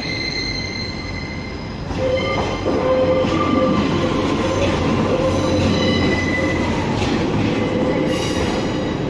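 Class 142 Pacer railbus arriving slowly, its wheels squealing in steady high tones over the rumble of the train; the sound grows louder about two seconds in.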